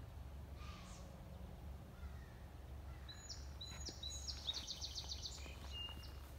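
Outdoor background with a steady low rumble; about three seconds in a small songbird sings a short song, a few high clear notes followed by a quick trill of about eight notes and a couple of lower notes at the end.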